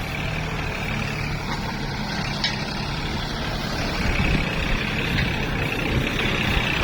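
Tractor's diesel engine running steadily under power, a little louder about four seconds in.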